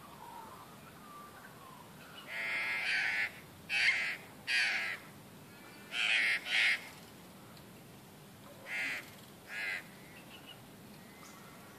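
Crows cawing: a series of about seven harsh caws in short clusters, one longer call followed by pairs, with the last two further apart.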